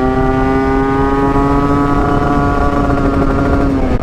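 Yamaha RX-King 135cc two-stroke single-cylinder engine pulling at high revs while riding, its pitch held nearly steady and creeping slightly upward, then dropping away near the end as the throttle eases or a gear changes. Wind noise on the microphone underneath.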